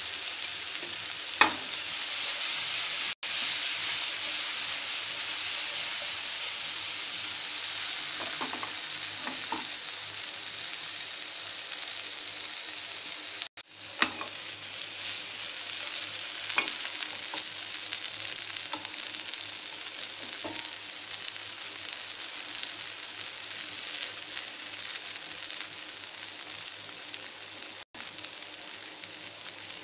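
Marinated cauliflower, capsicum and onion sizzling in mustard oil on a hot grill pan over a high flame, a steady frying hiss. A few sharp knocks come through, the loudest about a second and a half in.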